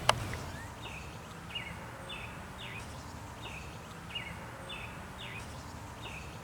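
A songbird calling outdoors, a run of short downward-slurred chirps about two a second over a steady low background rumble. A single sharp click sounds just at the start.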